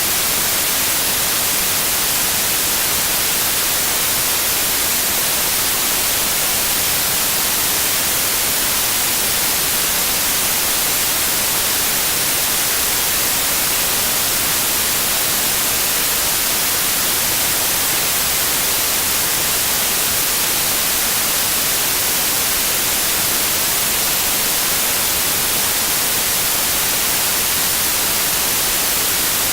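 Steady synthetic white noise: an even, unbroken hiss that never changes, brightest in the treble.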